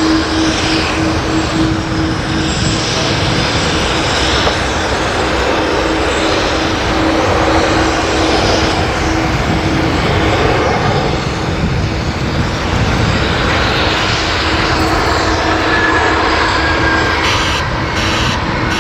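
Jet engines of a Boeing 777-300ER coming in to land, a loud steady rush with a steady low hum running through it.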